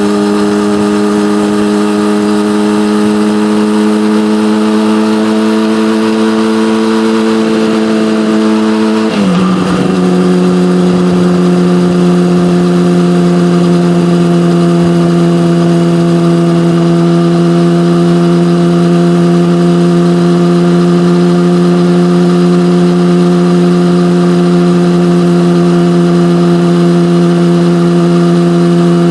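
Yamaha motorcycle with an SC-Project aftermarket exhaust riding along. The engine note climbs slowly, drops sharply about nine seconds in as it shifts up a gear, then holds steady.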